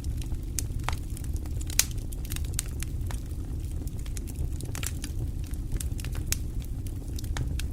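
Fire crackling: a steady low rumble with irregular sharp pops and snaps, the loudest pop about two seconds in.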